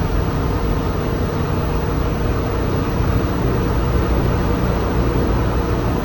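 Steady engine and road noise inside a moving city bus, a low rumble with a faint steady tone over it.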